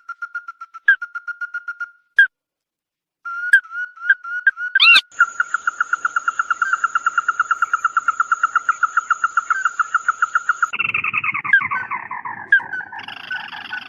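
A bird the Vietnamese call chim mắt đỏ ('red-eyed bird') calling in rapid series of short notes, all at one pitch, about six or seven a second. The sound cuts out for about a second near the start. Toward the end, rougher, overlapping calls take over.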